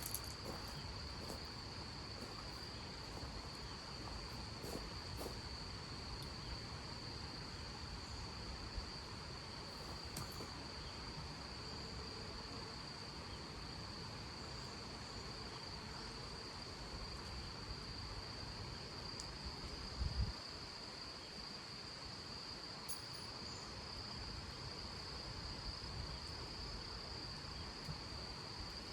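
Crickets trilling continuously as one steady high-pitched tone, over a low rumbling background noise; a single dull thump about twenty seconds in.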